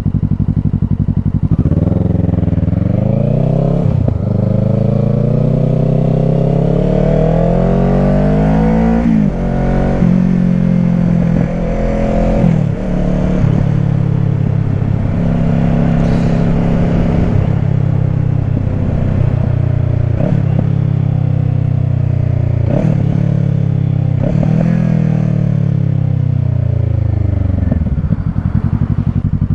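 Kawasaki Ninja 650 parallel-twin engine breathing through an aftermarket Shark full exhaust, accelerating through the gears. The revs climb and drop back at each upshift, then hold fairly steady with small changes, and fall away near the end as the bike slows.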